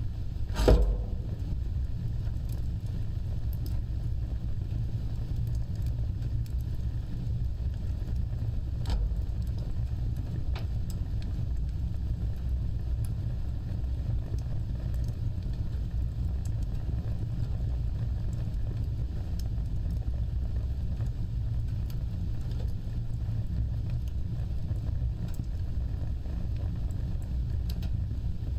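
Wood fire burning with a steady low rumble. One loud crackling pop comes just under a second in, and a few fainter pops follow later.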